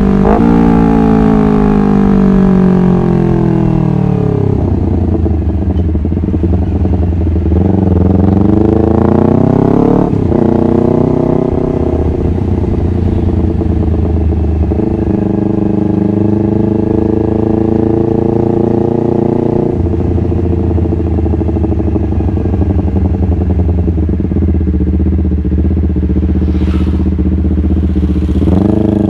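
Honda CBR250RR motorcycle engine under way. The revs fall over the first few seconds, then climb and drop sharply at a gear change about ten seconds in. It then holds a steady pitch with another shift around twenty seconds, and the revs rise again near the end.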